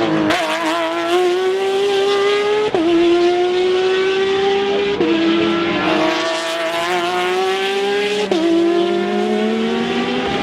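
Race car engine under full acceleration, its pitch climbing steadily through the gears with three quick upshifts, each a sudden drop in pitch, two to three seconds apart.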